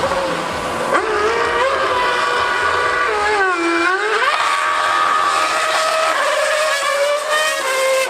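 High-revving racing engine running hard, its pitch dropping steeply about three and a half seconds in as it brakes and shifts down, then climbing again as it accelerates away.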